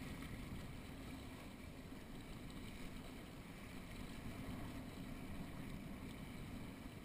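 Steady rush of wind and water aboard a small catboat under sail, with wind buffeting the microphone.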